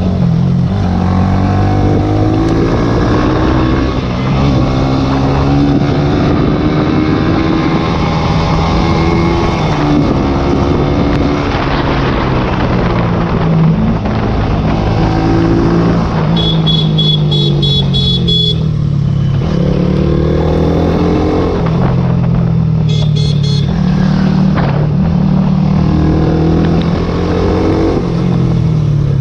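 Small sport motorcycle engine revving hard as it climbs, its pitch rising and dropping back again and again through gear changes. Two bursts of a high beeping tone cut in over it, one past the middle and one near the end.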